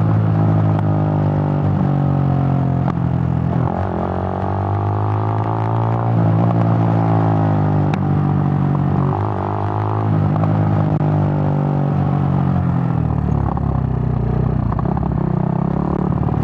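Suzuki GN125's air-cooled single-cylinder four-stroke engine running under way, its pitch rising and falling a few times as the bike speeds up and eases off.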